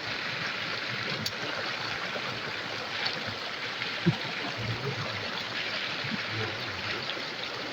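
River water flowing steadily, an even rushing sound, with a faint click about a second in and one short knock about four seconds in.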